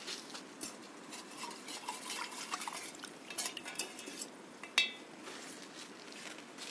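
Kitchen utensils clinking and scraping against dishes or a pot, a run of small taps and scrapes followed by one sharp, ringing clink about five seconds in.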